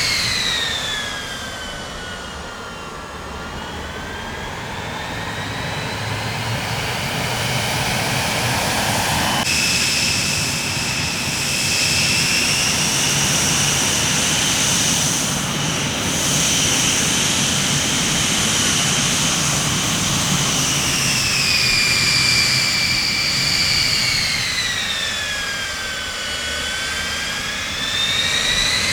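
Jet aircraft engines running with a high turbine whine over a rumble. The whine falls in pitch over the first few seconds, holds steady, then dips again and rises near the end, with an abrupt jump in the sound about nine seconds in.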